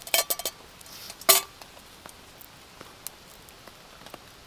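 Cutlery clinking against camp cookware while eating: a quick cluster of clinks at the start, one louder ringing clink just over a second in, then a few light taps.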